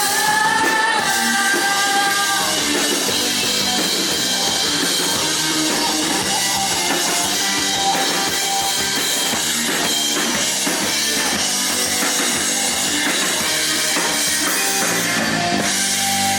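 Live indie rock band playing loudly, raw room sound: a held sung note for the first couple of seconds, then drums, cymbals and guitars carrying on without vocals.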